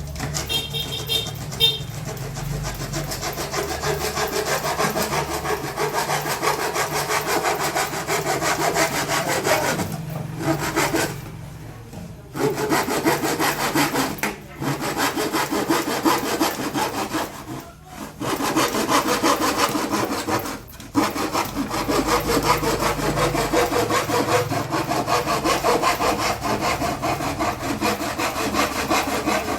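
Hand saw cutting through plywood in steady back-and-forth strokes, with a few short pauses partway through.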